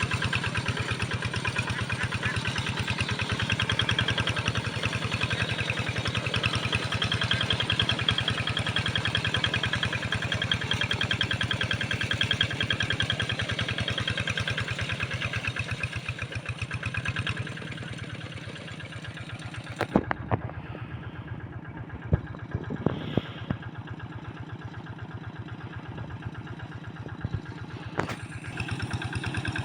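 Engine of a Kato two-wheel hand tractor running steadily with a fast, even chugging as it pulls a single plow. It becomes quieter past the middle, and a few sharp knocks sound in the later part.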